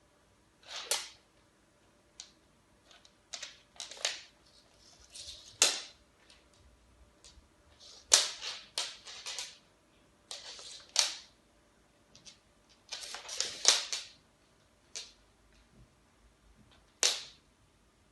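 A cat dragging a collar, making irregular scrapes and clatters in short spurts with pauses between them. The loudest spurts come about 6, 8 and 17 seconds in.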